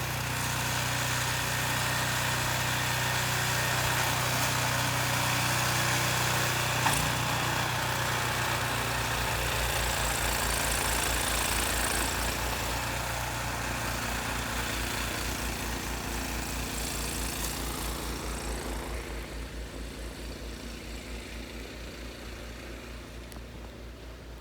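An engine running steadily, with a sharp click about seven seconds in, after which it settles into an even throb of about four beats a second and slowly fades.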